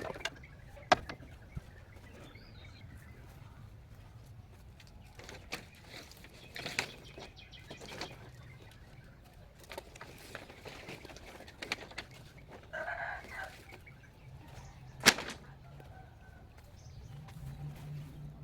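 Scattered sharp knocks and clicks over a low background hum, with a short clucking call from a chicken about thirteen seconds in.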